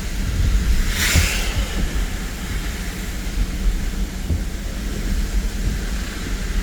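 A car being driven down a snowy street, heard from inside the cabin: a steady low rumble of engine and road noise, with a short hiss about a second in.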